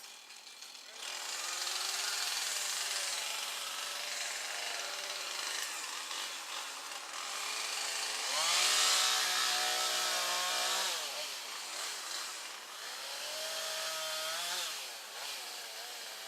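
Two-stroke chainsaw running and cutting wood. It starts about a second in and is revved up to full throttle twice, around the middle and again near the end, its pitch rising, holding and then dropping back.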